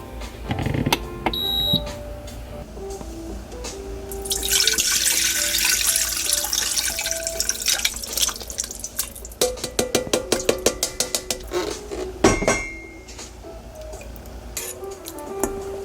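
Water running from a kitchen tap for several seconds, followed by a quick run of clinks and taps of dishes or utensils. Soft background music plays underneath.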